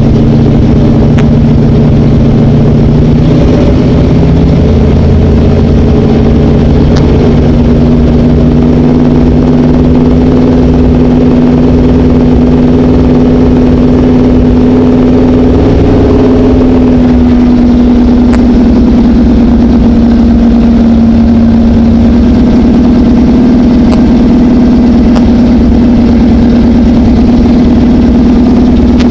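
A drag car's engine heard loud from inside the cabin, running at a low, steady speed as the car rolls slowly, its pitch shifting a little a few seconds in and again about halfway through.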